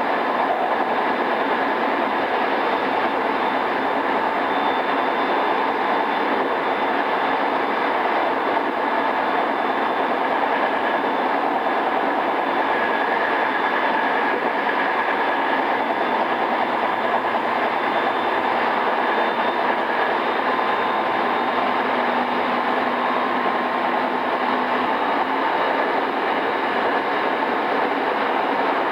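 JR East E217 series electric train (pre-renewal) running steadily between stations, heard from inside a motor car: continuous wheel and rail rolling noise with faint steady motor tones.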